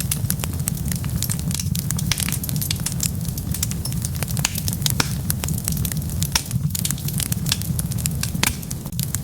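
Wood fire burning, with frequent sharp crackles and pops over a steady low rumble of flame.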